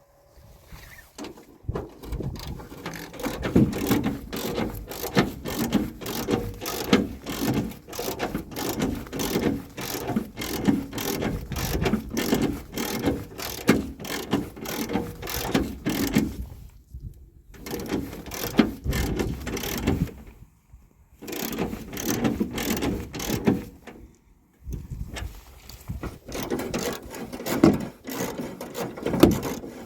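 Rapid, irregular mechanical clattering and ratcheting, like gears or a chain, from a self-propelled boat trailer's running gear. It stops briefly three times: a little past halfway, about two-thirds of the way in, and once more later on.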